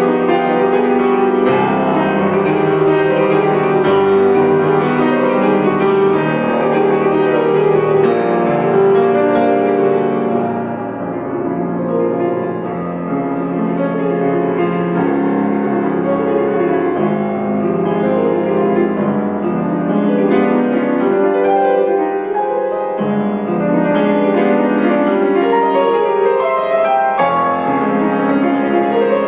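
Piano playing a classical piece, full and continuous, easing into a softer passage about ten seconds in before building again.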